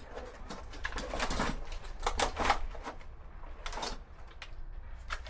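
Rummaging through a toolbox: small metal tools and objects clattering and clicking in irregular bursts.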